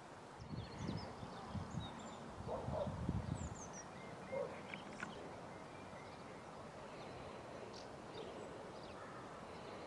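Outdoor ambience with a steady background hiss and a few short, high bird chirps scattered through it. Low rumbling thumps come in the first few seconds.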